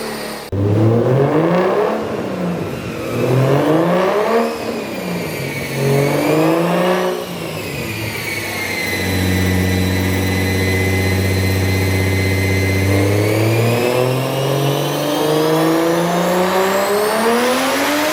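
Turbocharged BMW M52 straight-six on a chassis dyno: revved sharply three times, then held at a steady speed for about four seconds, then climbing slowly in pitch as a pull builds through the last few seconds.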